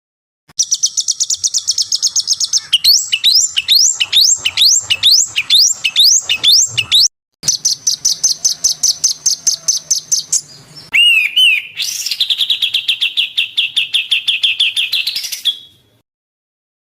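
Songbird song edited together from several recordings: fast high trills, then a run of repeated rising whistled notes about two a second, then more trills, each passage starting and stopping abruptly at the cuts.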